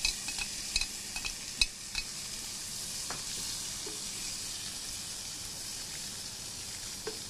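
Thin slices of green-lip abalone searing in hot olive oil in a wok, sizzling steadily. In the first couple of seconds, metal tongs clink sharply against the wok as the slices are tipped in and tossed.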